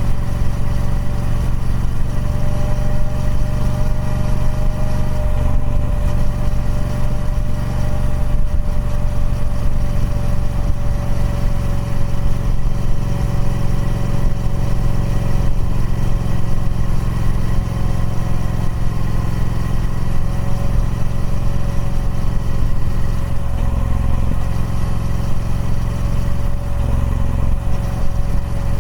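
Triumph Speed Twin 1200's 1200cc parallel-twin engine running steadily through its stock exhaust, with little change in pitch.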